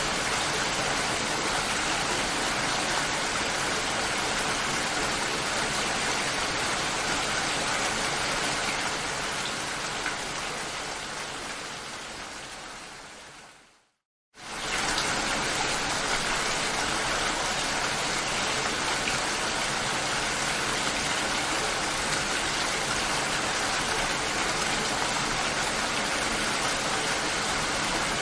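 Steady rainfall. It fades away over several seconds to a brief silence about halfway through, then returns at full level almost at once.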